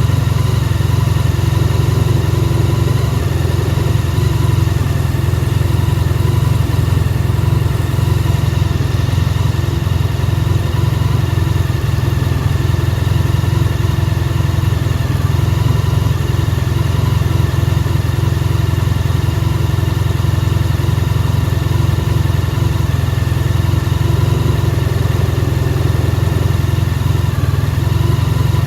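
Honda VFR1200F's V4 engine idling steadily, warming up after a start in about −7 °C air, with no revs.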